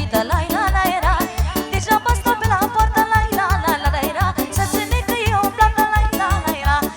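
Live Romanian party music (muzică de petrecere) with a quick, steady beat of about four pulses a second under a wavering, heavily ornamented lead melody.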